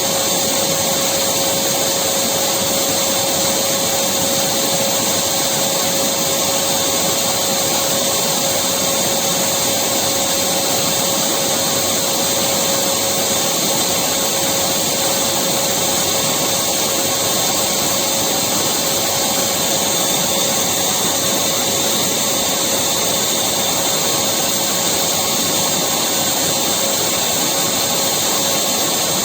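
Electric vacuum cleaner running continuously at a steady speed: a loud, even motor hiss with a constant whine.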